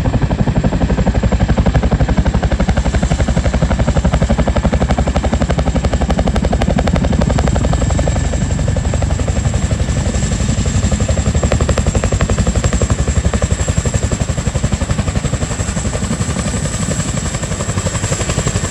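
Boeing CH-47 Chinook's twin tandem rotors beating rapidly and steadily, with a high steady turbine whine over them.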